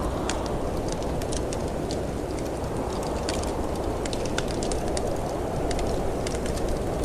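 Steady rumble of storm wind, with a wood fire in a fireplace crackling over it in frequent sharp, irregular pops.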